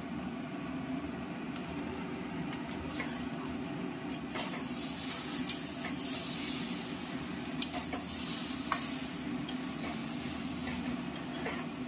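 Spice paste and fried prawns sizzling in a hot pan as they are stirred, with a few sharp clicks of the stirring utensil against the pan.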